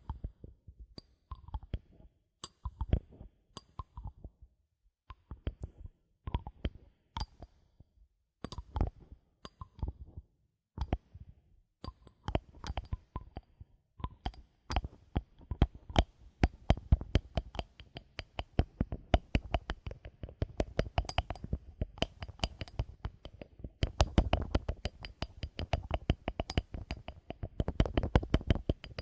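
Bottle caps clicking and tapping: scattered clicks at first, then a quick, steady run of clicks from about halfway through.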